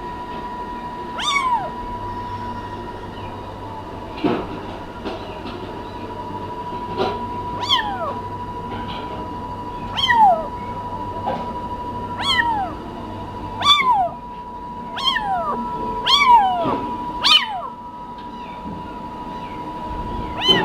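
Kitten meowing repeatedly, a high call every second or two, each one falling in pitch.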